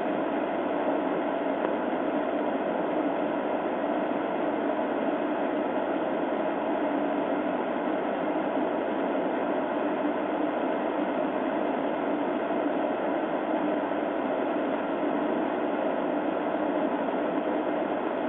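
Steady, even noise with a faint hum, as of an idling police patrol car, heard through the dashcam's narrow-band microphone.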